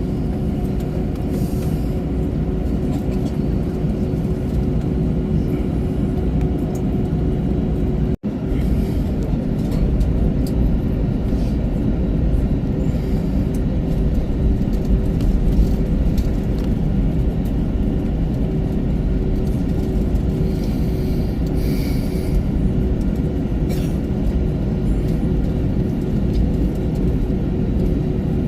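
Steady low rumble of an Airbus A321-200's cabin on the ground, with a constant hum under it. The sound cuts out completely for an instant about eight seconds in.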